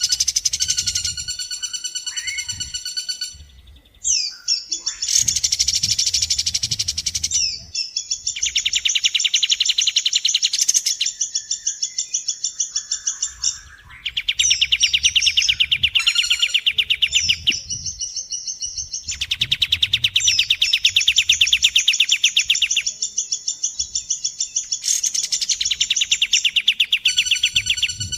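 Fast, high-pitched rattling bird trills in phrases a few seconds long with short breaks between them, from a song-training recording that mixes kapas tembak and woodpecker calls.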